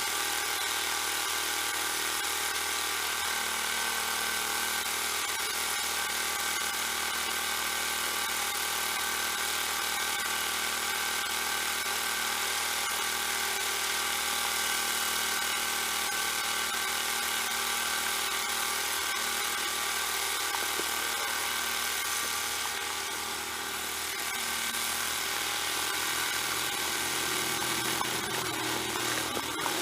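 Small snowblower engine running steadily, its level dipping briefly about three-quarters of the way through.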